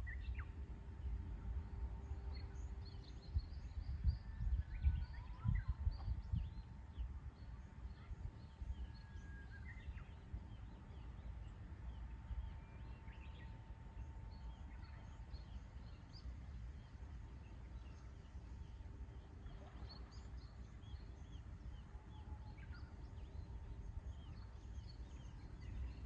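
Small birds chirping and singing, many short high calls scattered throughout, over a low rumble that swells in gusts, strongest about four to six seconds in.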